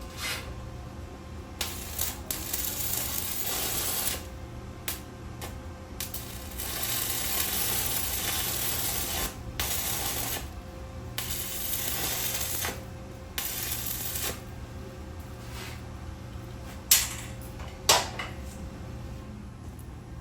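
Arc welding: the welding arc crackling and hissing in several runs of a few seconds each, with short breaks between them, over a steady low hum. Two sharp metal clinks near the end.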